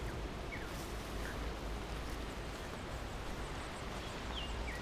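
Steady low rumble and rustle of walking a grassy trail, with a small bird chirping: two short falling notes in the first second or so and two more near the end.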